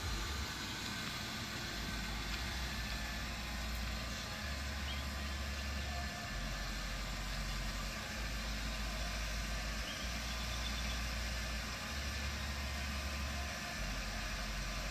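A car engine idling steadily, a low even rumble under a constant hiss.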